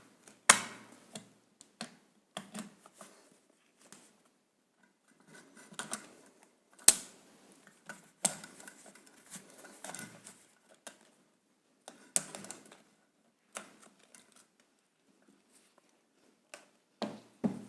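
Irregular clicks and light taps from hands working wires and small metal terminals on a washing-machine motor, with quiet gaps between them.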